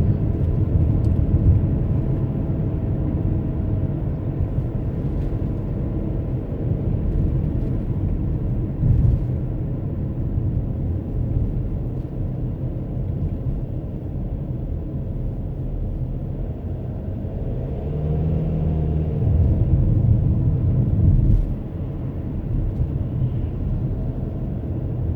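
Car driving-noise: a steady low rumble of engine and tyres on the road. About eighteen seconds in, the engine note climbs and grows louder for a few seconds, then drops off sharply, as when the car accelerates and then eases off or shifts.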